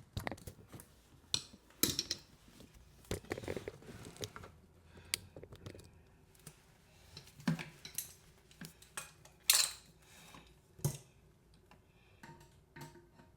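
Metal hand tools clinking and knocking as they are handled: scattered sharp clicks and clanks, the loudest two coming in the second half.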